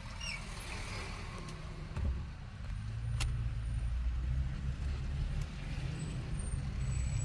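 A vehicle engine running with a steady low rumble that grows louder about three seconds in, with a single sharp click at about the same point.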